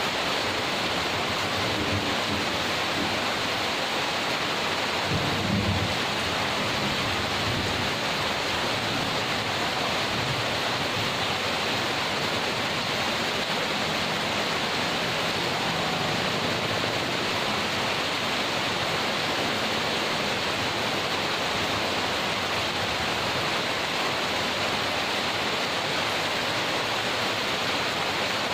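Heavy rain falling as a steady, even hiss. A short low rumble, like distant thunder, comes about five seconds in.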